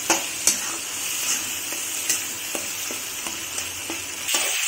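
Tomatoes and mashed boiled potatoes sizzling in hot oil in an aluminium wok, stirred with a metal spatula that scrapes and clicks against the pan every so often. The sizzle grows louder near the end.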